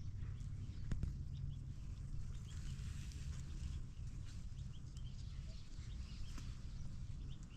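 Small birds chirping in short scattered calls over a low steady rumble, with a single sharp click about a second in.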